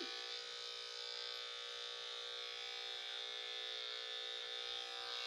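Electric dog-grooming clippers running with a steady, unchanging hum.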